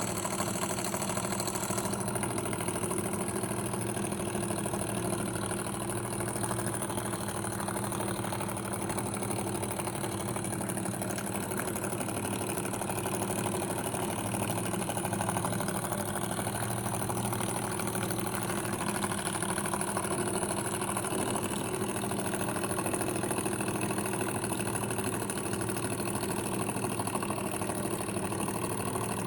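Model vertical Stirling engine running steadily at speed: a fast, even mechanical clatter over a constant hum.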